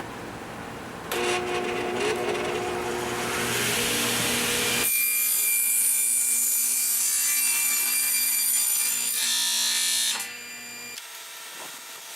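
Table saw starting up about a second in and cutting across a wooden board to length. It runs steadily through the cut and drops away near the end as it is switched off.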